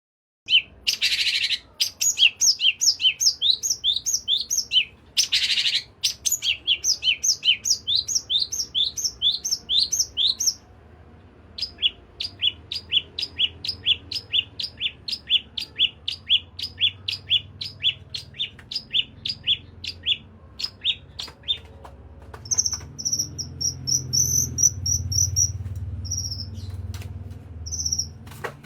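A small songbird singing long runs of quick, sharp rising whistled notes, several a second, with a short pause partway through and higher, clipped notes near the end. It is a lure recording meant to prompt a caged bird to sing. A low hum rises under it in the last few seconds.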